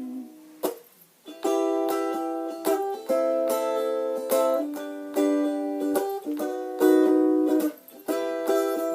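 Ukulele strummed in chords with no singing: an instrumental break, each chord ringing for about a second before the next strum, with a brief gap about a second in.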